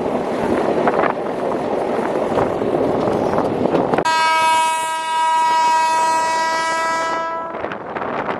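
Passenger train running with a steady rumble and rattle, then a train horn sounds one long, steady blast about four seconds in, lasting about three and a half seconds, before the running noise returns.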